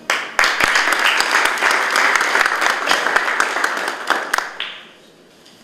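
Audience applauding, dense clapping that starts just after the poem's closing line and dies away about five seconds in.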